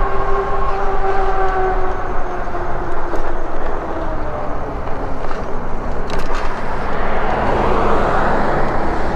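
Road noise on a moving bike: a steady low rumble and wind on the microphone, with a steady droning tone of several notes that fades away over the first few seconds. A passing vehicle swells up and goes by near the end.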